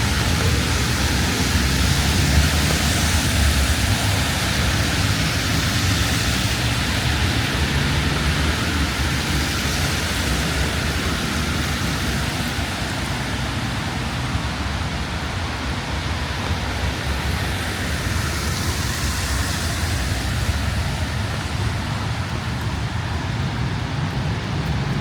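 City street ambience in the rain: a steady hiss of rain and wet-road noise over the low rumble of passing traffic, with a few gentle swells as vehicles go by.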